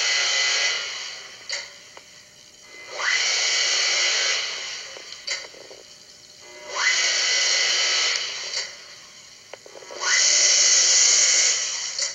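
Elevator machinery heard through the wall: a quick rising whine, then a hissing mechanical rush that lasts a second or two and dies away, repeating about every three and a half seconds.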